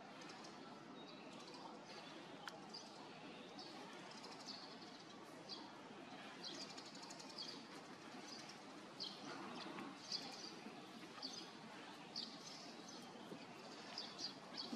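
Faint outdoor ambience with small birds chirping: short high chirps every second or so, with a quick trill about six and a half seconds in.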